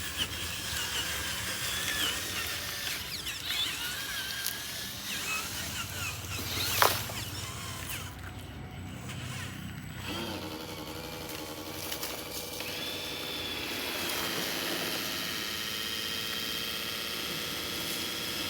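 Small electric motors of radio-controlled construction models whining as they drive and work, with shifting pitch at first and a sharp clack about seven seconds in, then a steadier high whine from about twelve seconds on.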